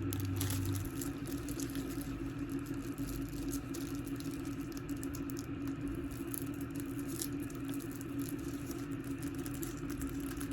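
Faint clicks and rustles of a makeup package being handled and opened, over a steady low hum.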